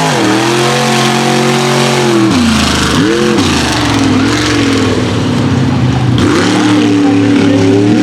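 Mega truck engine running hard under changing throttle, its revs dropping just after the start, blipping up and down about three seconds in, then climbing and holding high near the end.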